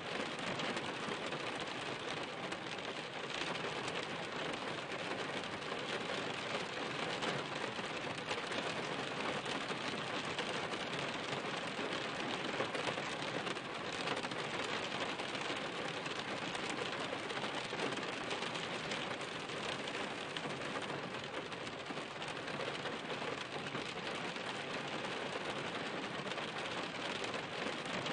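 Rain falling steadily: a dense, even patter of drops that neither builds nor eases.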